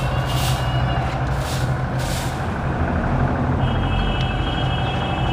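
A motor or engine running with a steady low hum, with a few short hissing bursts in the first two seconds.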